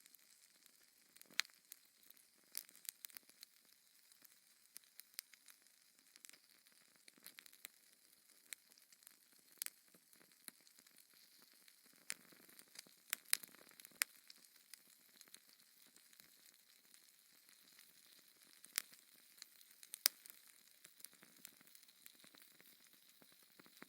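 Wood fire burning in a fireplace: irregular, scattered crackles and pops over a faint steady hiss.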